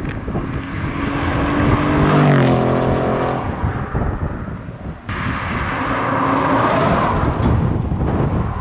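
Very loud car exhaust under hard acceleration. It swells to a peak and its note drops away about three seconds in, then it pulls hard again after a brief lift around five seconds.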